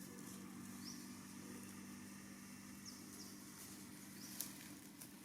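Faint outdoor background: a steady low hum with a few brief high chirps scattered through it and one sharp click.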